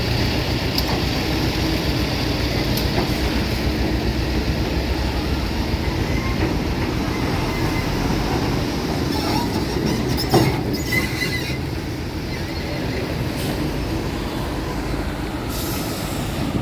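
Steady, loud rumble of a heavy vehicle moving, with scattered clanks and a brief squeal about ten seconds in.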